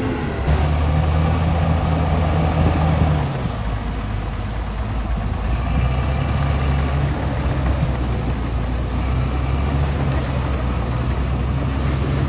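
Heavy diesel engine of earthmoving machinery running steadily. Its pitch drops about three seconds in as it eases off, then holds.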